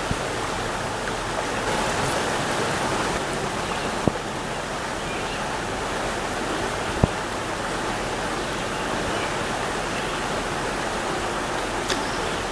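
Steady rush of flowing stream water, with two sharp knocks about four and seven seconds in.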